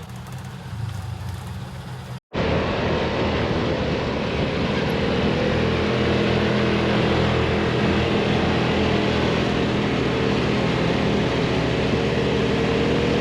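Vehicle engine running at a steady speed while under way, with wind and road noise. The sound cuts out briefly about two seconds in and comes back louder.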